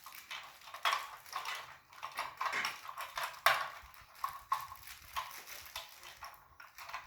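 Small plastic engine-kit parts being handled and fitted together: irregular clicking, rattling and scraping of plastic pieces as the crankcase halves are lined up.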